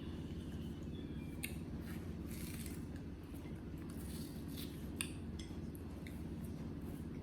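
A knife working against a plate, giving scattered clicks and short scrapes with one sharper click about five seconds in, over a steady low hum.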